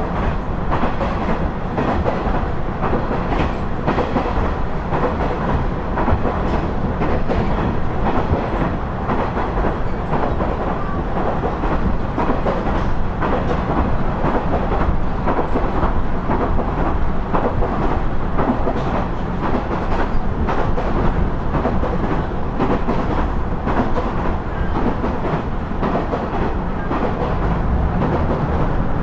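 KiHa 110 series diesel railcar (KiHa 112 car) running along the line: a steady rumble of engine and running gear, with frequent irregular clicks of the wheels over the rails.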